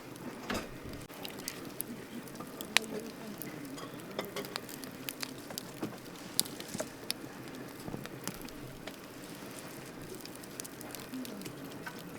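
Wood campfire crackling: irregular pops and snaps over a steady hiss of burning, with one sharper pop about three seconds in.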